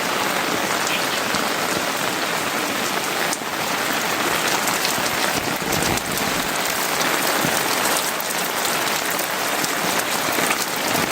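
Heavy rain falling: a loud, steady hiss with many single drops ticking close by.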